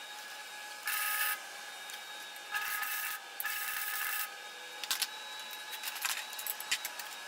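Electric arc welder laying three short weld bursts on the steel bench frame, each a buzzing crackle lasting half a second to a second, the welder adjusted so as not to burn through the thin steel. After them, irregular sharp ticks and crackles.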